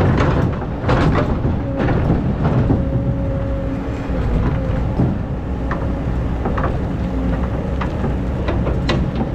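Excavator's diesel engine running steadily under load with a hydraulic whine, and scattered sharp knocks and scrapes from digging into hard, compacted sand.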